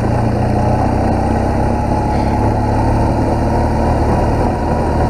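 BMW motorcycle engine running at a steady, even pitch while the bike is ridden along a wet dirt road, heard from a helmet-mounted camera.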